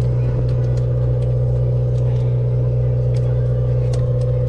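Steady low drone of a party fishing boat's motor, running without change, with a few light scattered clicks over it.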